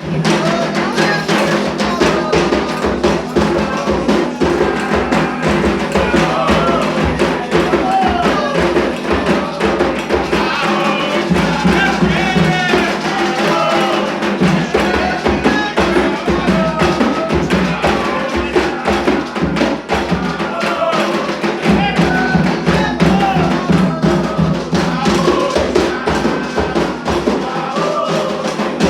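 Candomblé ritual music: hand drums beating a dense, continuous rhythm, with a group of voices singing over them.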